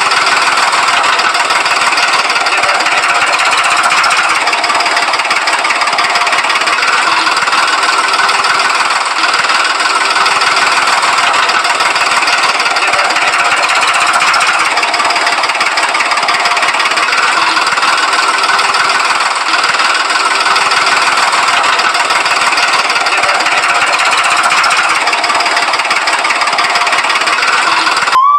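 Small engine of a miniature water pump model running steadily, a dense, even mechanical clatter with little deep bass. It stops abruptly at the end.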